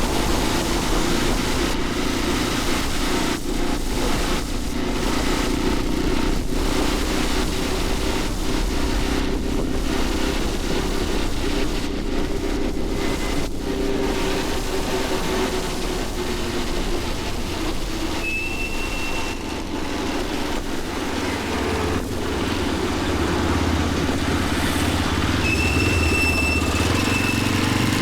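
Motorcycle engine running under way in city traffic, over a steady rush of noise, its pitch easing down about halfway through. A short high tone sounds twice, near two-thirds of the way in and near the end.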